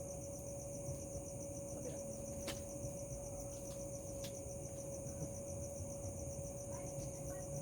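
Crickets chirping in a continuous, fast-pulsing high trill, over a steady low hum and a few sharp clicks.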